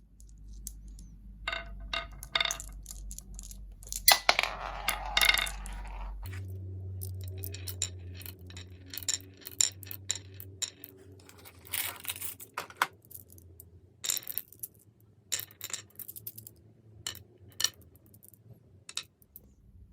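Glass marbles rolling and clicking against each other and a wooden ramp, with many sharp clinks and dense clattering around four to five seconds in and again about twelve seconds in. A low steady hum runs underneath and shifts in pitch about six seconds in.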